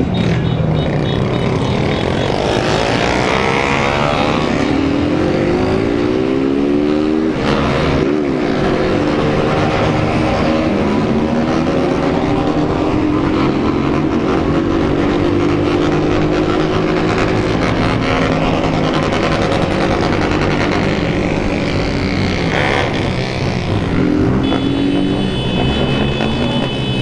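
Many motorcycles riding together in a convoy, their engines running and revving at once, the pitches of passing bikes sliding up and down and crossing each other. A few high steady tones come in near the end.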